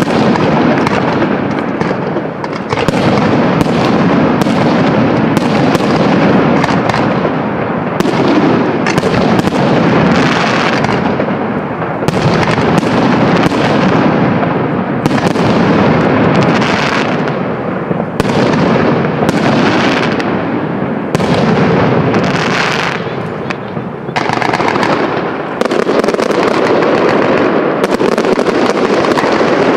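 Fireworks display: aerial shells launching and bursting in close, overlapping succession, a dense and near-continuous barrage of bangs, with a brief lull about three quarters of the way through.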